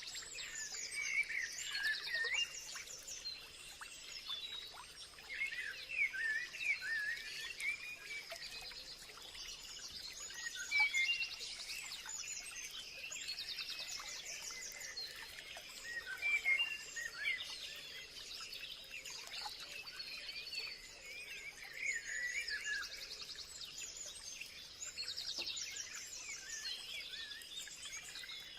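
Several birds singing and chirping together in a dense chorus, with quick high trills recurring every few seconds, over a steady high-pitched buzz.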